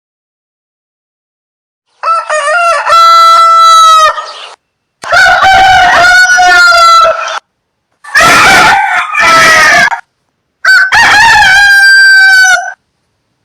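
Rooster crowing four times in a row, each a long drawn-out cock-a-doodle-doo of about two seconds, with short pauses between.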